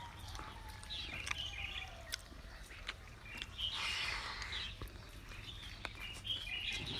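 Birds chirping in short bursts over a steady low background hum, with a few sharp clicks.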